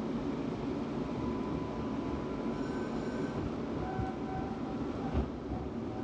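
Tram running on its rails, heard from inside the car: a steady rumble with faint high squealing tones from the wheels for a couple of seconds around the middle, and a single thump near the end.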